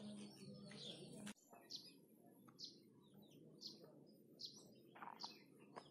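Faint songbird calls: a short, high, falling chirp repeated about once a second. A low hum underneath stops abruptly just over a second in.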